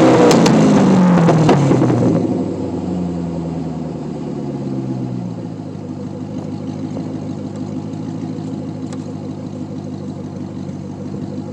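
Chevrolet C5 Corvette V8 exhaust with an X-pipe and the mufflers deleted, falling back from a rev with a few sharp pops over the first two seconds, then settling into a steady idle.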